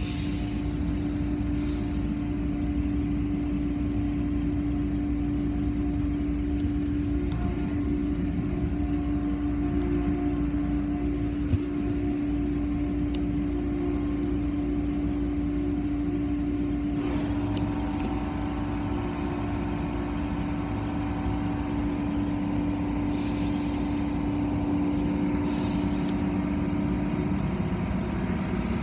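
A steady low mechanical rumble with a constant droning hum that stops near the end, and one sharp click partway through.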